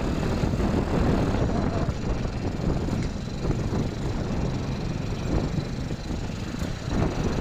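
A vehicle on the move along a road: a steady, uneven rumble of engine and travel noise.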